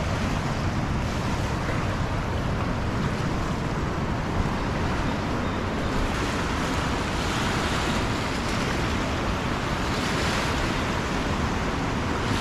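A river in flood, swollen with released reservoir water, rushing fast past the bank in a steady, unbroken wash of water noise.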